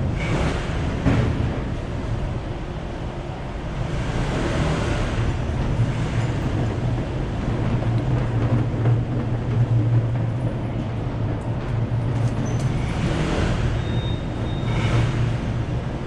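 Busy city street traffic heard while riding: a steady low engine hum with the noise of motor scooters and other vehicles swelling as they pass, several times.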